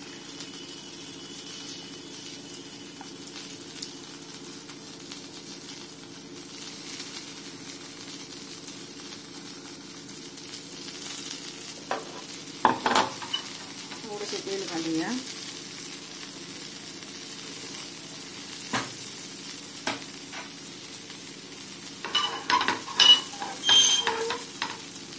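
Masala-coated drumstick pod pieces sizzling in shallow oil on a flat frying pan, a steady hiss. About halfway through there is a brief louder sizzle with a few clicks as more coated pieces are laid into the hot oil. Near the end a metal spatula clatters against the pan several times.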